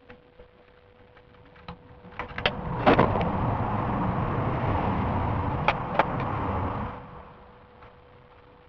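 Sharp plastic clicks and knocks of airsoft rifle parts being handled and fitted. From about three to seven seconds in there is a loud, low rushing noise with a few clicks over it.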